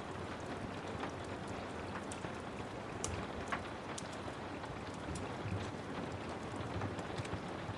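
Steady rain with the scattered snaps and pops of a wood fire crackling in a fireplace.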